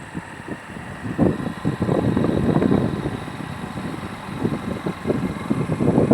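A motor vehicle running along on the move, an engine and road rumble that surge and ease unevenly.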